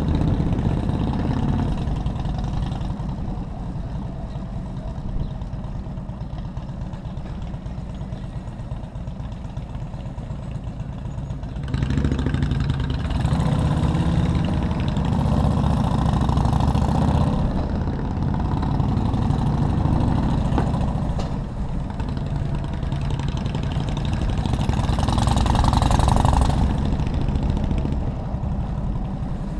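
Motorcycle engine running while riding, heard from the bike with road noise around it; it grows louder about twelve seconds in. A brief rushing hiss swells near the end.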